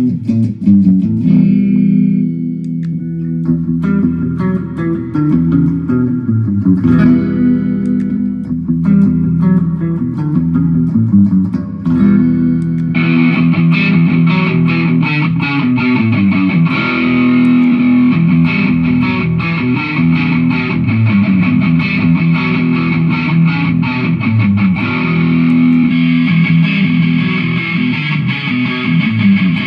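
Jackson electric guitar playing a riff of low notes through a Mooer GE150 multi-effects processor. About 13 seconds in, the tone turns much brighter, with more treble.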